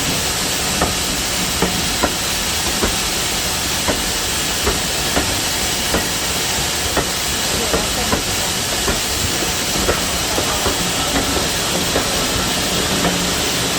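Steam engine with steam hissing out steadily, and sharp irregular clicks about once or twice a second.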